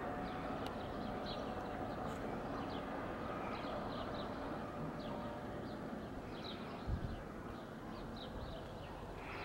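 Small birds chirping again and again in short high notes over a steady low rumble, with one low thump about seven seconds in.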